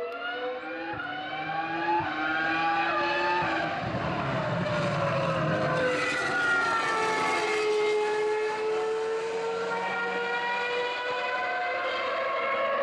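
Ferrari Formula One car's high-revving engine at speed on track: its pitch climbs, drops at a gear change about three and a half seconds in, slides lower as the car goes past, then climbs again as it pulls away.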